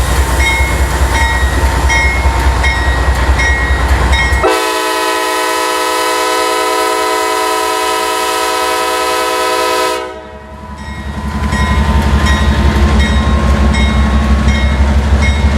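Diesel freight train rumbling by on the move. About four seconds in, the rumble gives way to a loud, steady many-pitched tone. The tone holds for about five seconds and cuts off abruptly, and then the rumble builds back up.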